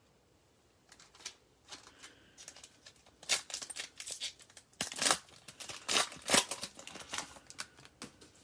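Trading card packs and cards being handled: a run of crinkling, rustling and light clicking noises that starts about a second in, loudest around the middle.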